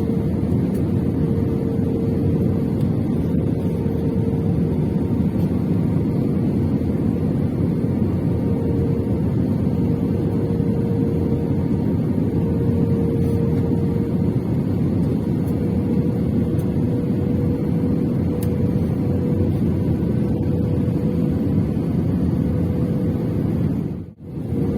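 Steady engine noise of an airliner heard from inside the cabin: a constant low rumble with a steady hum on top. The sound drops out briefly near the end.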